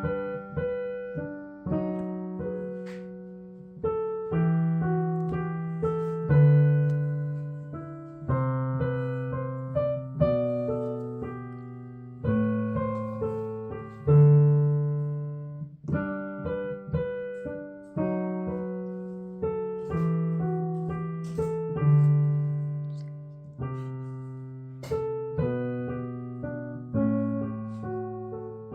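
Solo piano playing a slow, flowing piece: a low bass note struck about every two seconds under melody and chord notes, each note ringing and fading.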